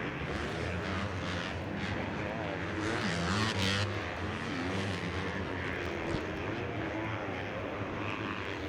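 Motocross bike engines on the track, revving up and down as riders race through the course, with a louder swell as one passes closer about three seconds in.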